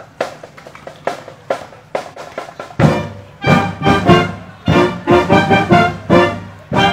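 Marching band: the drum line beats a steady pulse of about two strikes a second, then about three seconds in the horns come in playing loud chords over the drums.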